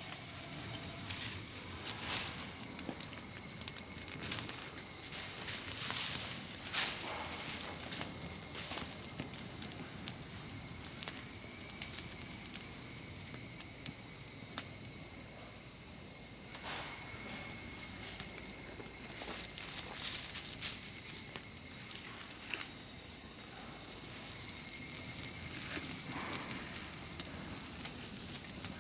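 A steady high-pitched chorus of summer insects, with scattered sharp pops and crackles from a wood campfire.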